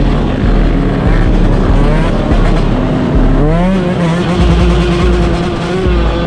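Off-road motorcycle and ATV engines running and revving. One engine's pitch climbs sharply about three and a half seconds in and then holds high for a couple of seconds.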